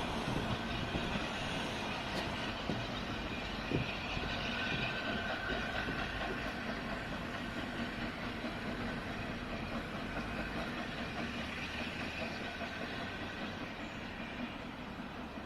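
Heritage train running along the line, with a few knocks in the first few seconds and its sound slowly fading as it moves away.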